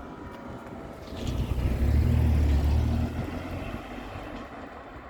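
A heavy road vehicle's engine passing close by: a low hum that swells about a second in, is loudest for about two seconds, then fades away.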